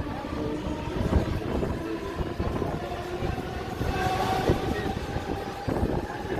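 Mumbai suburban electric local train running between stations, heard from inside the coach: a steady rumble and rattle of the carriage on the track, with faint steady whining tones that grow a little louder in the middle.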